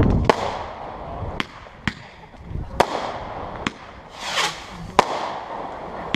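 Fireworks going off: about six sharp bangs at irregular intervals, with a brief whoosh a little after four seconds in.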